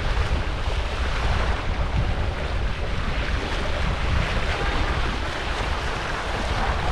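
Wind buffeting the microphone in a low, steady rumble over the rush of water.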